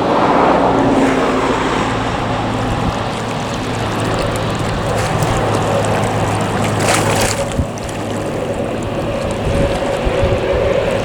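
Jet engines of an Airbus A320neo airliner running steadily, a loud sustained rush with a low hum underneath.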